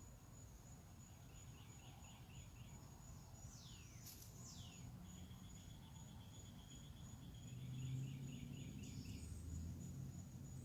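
Backyard birds calling: a few short rapid trills, two quick downward-sweeping whistles about four seconds in, and a held note. Under them an insect keeps up a steady, high-pitched pulsing chirp, and a low rumble rises near the end.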